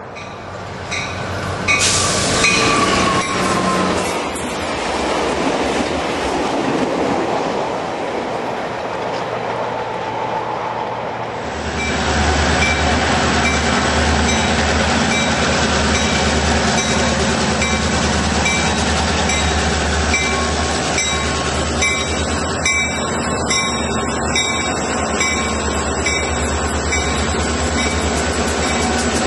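A diesel-hauled passenger train rounds a curve: its wheels squeal briefly at first, then it rumbles past. About eleven seconds in, a different sound takes over: Southern Pacific and Union Pacific freight diesel locomotives move slowly, their engines giving a steady low throb.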